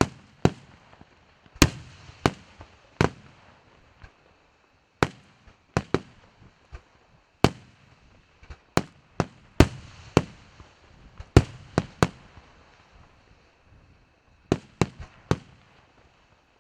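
Aerial fireworks shells bursting in the sky: about twenty sharp bangs at uneven intervals, each trailing off in a short echo. There is a pause of about two seconds a little past the middle, then a quick run of four bangs near the end.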